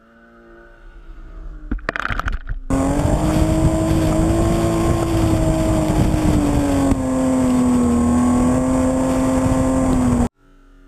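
BMW E36 325is's straight-six engine, building in level over the first few seconds, then running hard at a steady high pitch under load, the pitch easing slightly about seven seconds in. It cuts off suddenly near the end.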